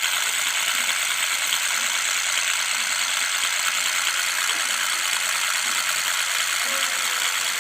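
Small DC motor running steadily, a dense even mechanical noise that does not change.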